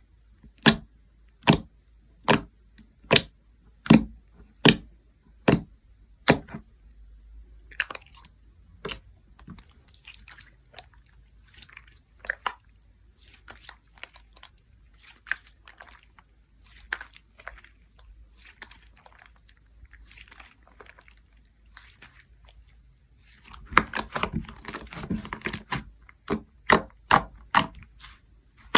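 Slime being squeezed and pressed by hand, popping sharply about once every second for the first six seconds, then softer crackling and squishing. About 24 seconds in comes a dense run of crackles, and a few more sharp pops near the end.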